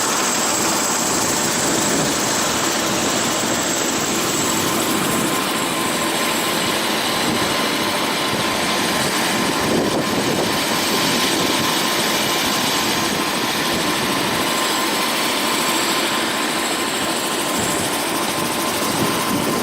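Helicopter in flight: steady engine and rotor noise with a thin, high, steady whine over it.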